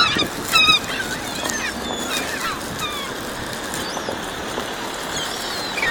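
Gulls calling: several short cries, each gliding down in pitch, the loudest at the very start and about half a second in, over a steady background wash.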